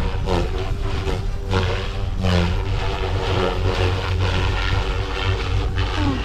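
GooSky RS4 direct-drive electric RC helicopter in 3D aerobatic flight: its motor and rotor blades whine and buzz, the pitch shifting up and down as it manoeuvres, over a steady low rumble.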